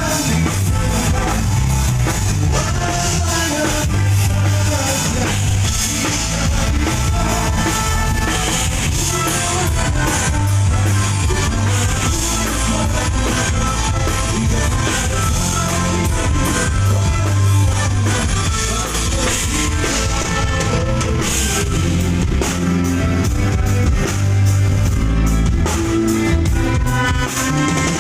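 A live band playing rock music at a sound check: drum kit and guitar over a heavy low end.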